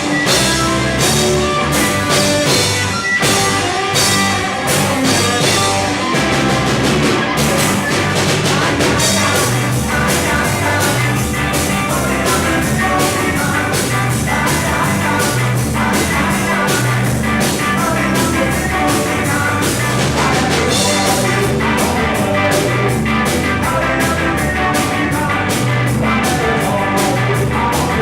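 Rock band playing: electric guitars, bass guitar and drum kit, with the drumming getting busier about eight seconds in.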